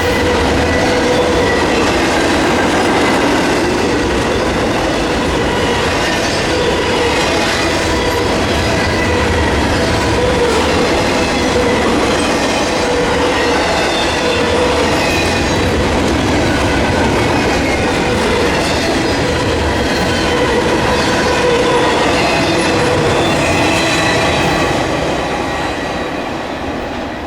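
A train rolling steadily past, its steel wheels running on the rails with a thin squeal from the wheels. It starts to fade near the end.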